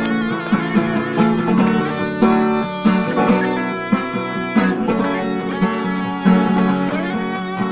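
Guitar playing an instrumental passage, plucked and strummed notes ringing at a steady pace.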